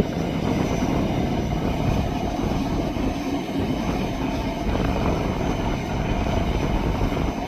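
Airbus A320 jet engines running with a steady rumble and a faint high whine.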